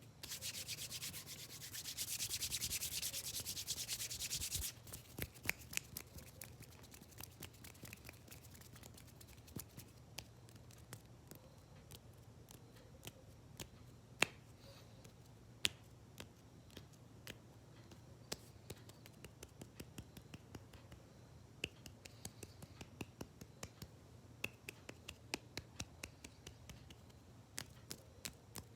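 Hands rubbed together fast, a dense dry swishing for the first four to five seconds. Then comes a long run of quick, irregular sharp clicks and taps made with the hands and fingers.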